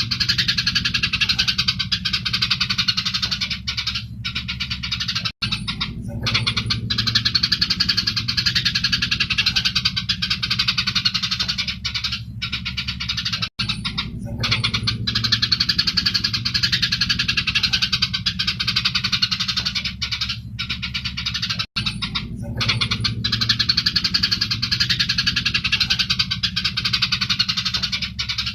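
Eurasian tree sparrows chattering fast and without pause in a fighting squabble, over a low steady hum. The same recording loops about every eight seconds, with a brief cut at each join.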